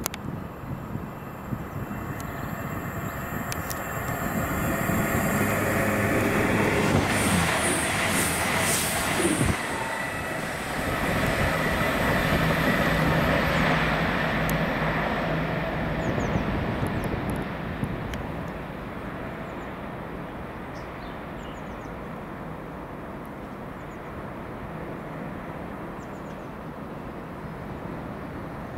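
A train passing on the main line: the sound builds to a loud peak as it goes by, with a steady low engine or traction hum and rail noise, then fades away.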